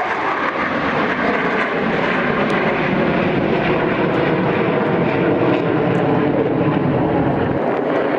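Blue Angels display aircraft in flight: a loud, steady aircraft-engine roar. Its deep low end fills in about a second in and drops away near the end.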